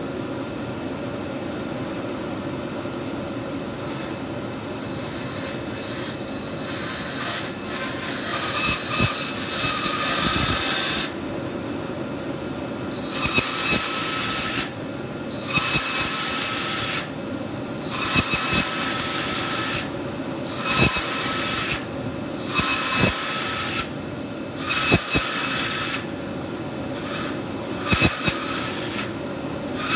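Bandsaw running steadily, then from about seven seconds in, blade cutting into wood in a series of about nine short cuts of a second or two each. These are closely spaced straight kerf cuts, each stopped just short of a marked line.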